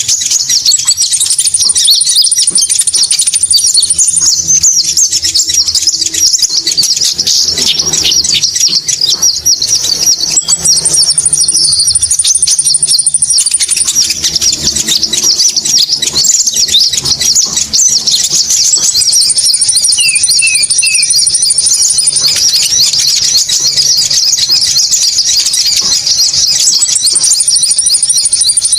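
Bird-lure recording of konin bird calls: loud, dense, high-pitched chattering that never lets up, with a thin, even higher trill coming in every eight seconds or so for about three seconds at a time.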